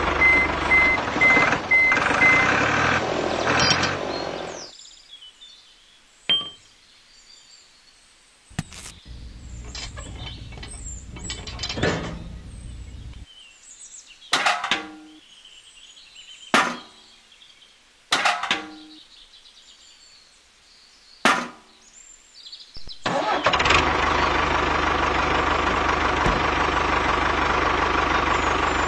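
Background music fades out. Then come about six sharp knocks as small metal buckets and a toy cement mixer are set down on a toy trailer. For the last several seconds the small electric motor of a homemade mini tractor runs with a steady whine.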